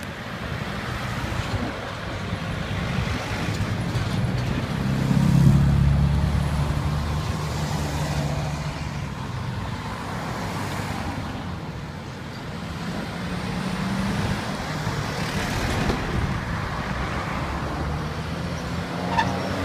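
Road traffic: motor vehicles running and passing, with one passing loudest about five to six seconds in.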